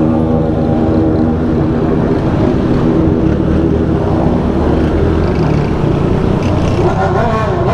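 Motorcycle engine running steadily while riding, with heavy wind rumble on the microphone; near the end an engine's pitch rises and falls.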